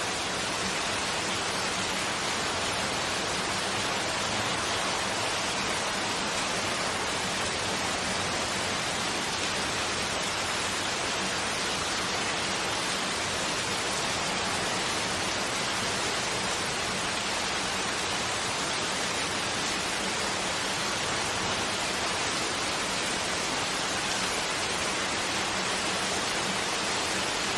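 Steady rain falling on the surrounding vegetation, an even, unbroken hiss.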